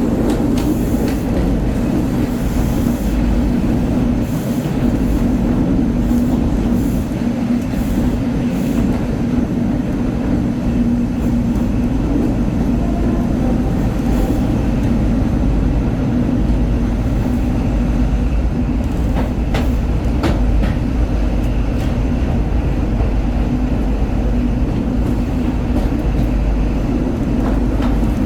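Class 43 HST power car's diesel engine running steadily with a deep hum, heard from the coach behind it, over the rumble of the wheels on the rails. There are a few short clicks from the track.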